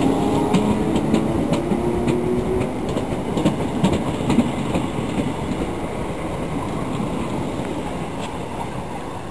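Southern electric multiple unit passing at speed, its wheels clicking over rail joints under a steady rumble, with a motor whine in the first few seconds. The sound fades as the rear of the train moves away.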